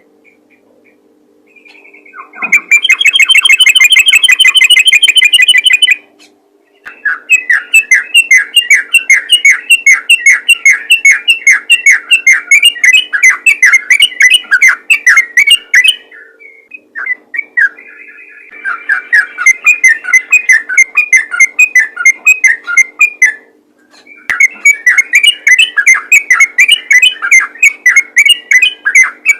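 Yellow-vented bulbul (trucukan) singing in its rapid-fire style: long bouts of fast, repeated chattering whistled notes, four bouts with short pauses between. A faint steady hum runs underneath.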